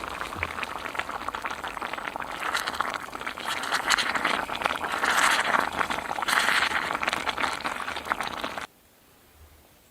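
One-pot pasta in tomato sauce bubbling hard in the pot, a dense crackling and spluttering that grows louder halfway through and cuts off suddenly near the end.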